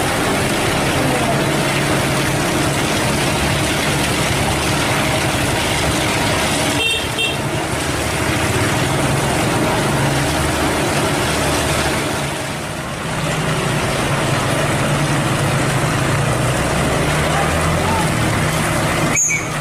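Heavy diesel engine of a cement mixer truck running steadily under load at a road construction site, with a few short high beeps about seven seconds in.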